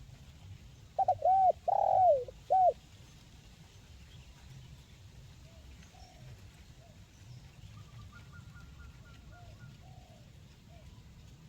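Spotted dove (tekukur) cooing: one loud phrase of four short arched notes, the third drawn out, about a second in. Fainter coos follow, and another bird gives a brief faint rapid trill.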